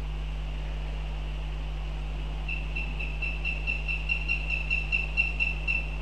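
A bird calling a rapid series of about fifteen short, clear, high notes, about four or five a second, starting about halfway through and growing louder. A steady low electrical hum and faint hiss run underneath.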